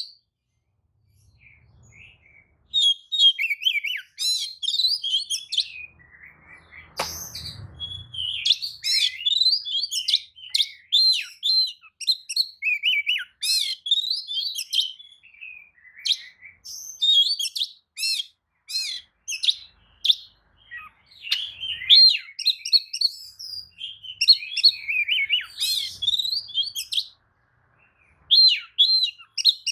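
Oriental magpie-robin singing a rich, rapidly varied song of whistles and trills in phrases separated by short pauses. A brief low thump sounds about seven seconds in.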